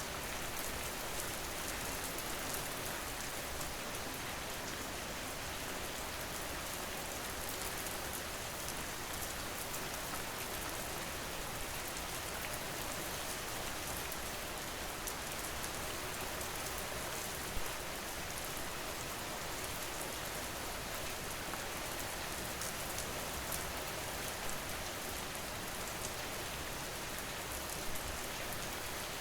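Steady rain: an even hiss of falling rain with fine, dense drop ticks, unchanging throughout apart from a couple of slightly louder drops.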